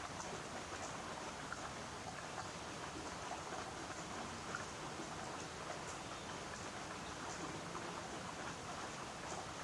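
Steady rain falling, with many small drops ticking here and there.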